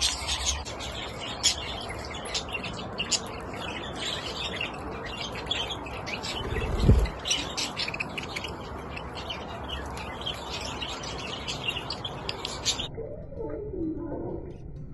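Many birds chirping and twittering in quick short calls, with a brief low thump about seven seconds in. Near the end the chirping stops suddenly and only fainter, lower calls remain.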